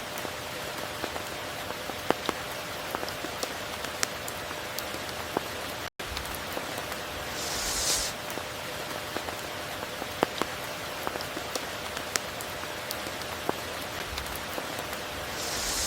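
Steady rain falling, with many individual drops ticking sharply through the downpour. A brief hissing swell rises and fades about halfway through and again at the end, and the sound cuts out for an instant about six seconds in.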